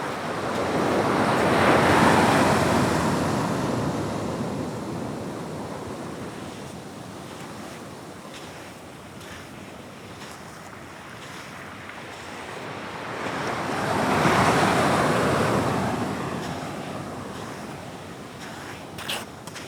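Atlantic waves breaking on a rocky shore, two surges about twelve seconds apart, each building up and fading away. A brief click near the end.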